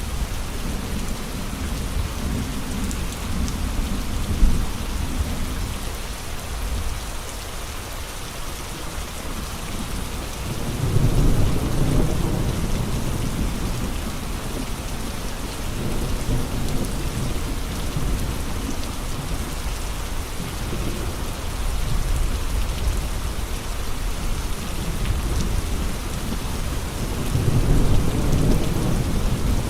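Steady heavy rain with gusts of wind. The low end swells into a deep rumble twice, about eleven seconds in and again near the end.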